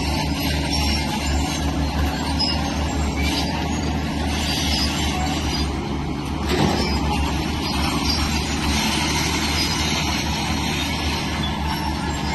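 Diesel engine of a Shantui crawler bulldozer running hard under load: a steady, throbbing low rumble with a metallic clatter and hiss above it. A single heavy knock about six and a half seconds in.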